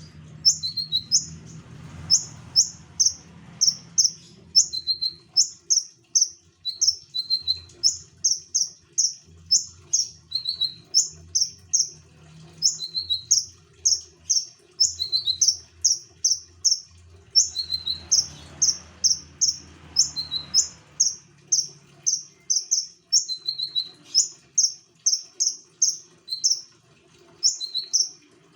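Konin songbird singing continuously in full song: quick, high chirps repeated about three times a second, with a lower note slipped in every second or so.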